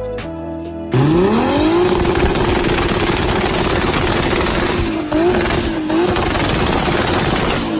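A car engine revving up sharply about a second in, then holding high revs under a loud, hissing rush of noise, with its pitch falling away near the end.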